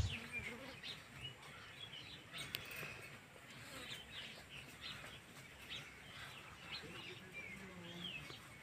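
Faint chirping of small birds: scattered short, high chirps.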